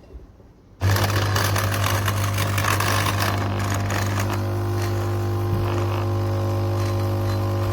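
KOTLIE AC-513HF multi-capsule espresso machine's pump switching on abruptly a little under a second in and running with a steady, loud buzz and hiss as it pushes water through to brew coffee.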